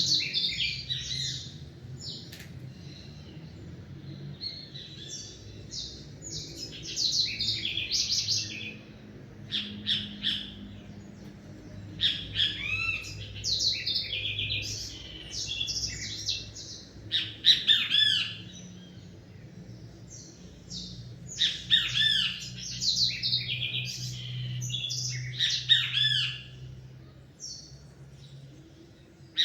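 Songbirds singing in bouts of quick, high chirping and trilling phrases, with short pauses between bouts.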